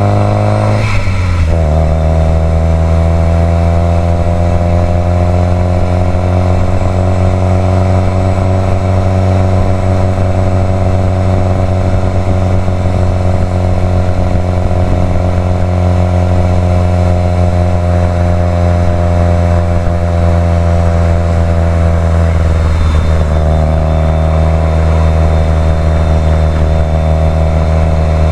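Subaru WRX STI's turbocharged flat-four engine under way on the road, running steadily. Its pitch drops sharply about a second in, as at a gear change, holds fairly level, then dips briefly again near the end.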